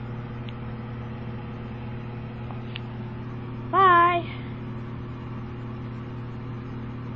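A steady low electrical or mechanical hum throughout, with one short, loud, wavering vocal sound from a person about four seconds in.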